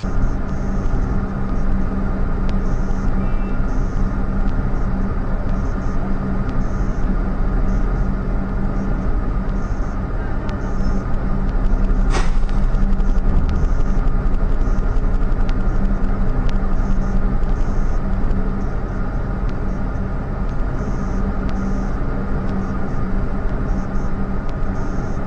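Steady low engine hum of a stopped vehicle idling, with street noise and a single sharp click about twelve seconds in.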